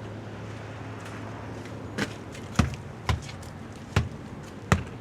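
Steady low hum of an idling truck engine, with five sharp knocks at uneven intervals in the last three seconds.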